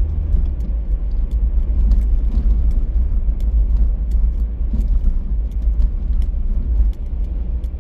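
Car driving along: a steady low rumble of road and engine noise, with faint scattered ticks over it.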